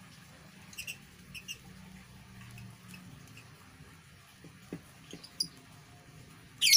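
Lovebirds making short, high squeaky chirps, a few scattered calls with one much louder shrill chirp near the end.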